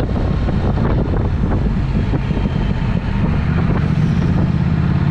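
Triumph Speed Twin's parallel-twin engine breathing through a Vance & Hines exhaust, running steadily under way, with wind buffeting the microphone. The engine note grows a little fuller about three and a half seconds in.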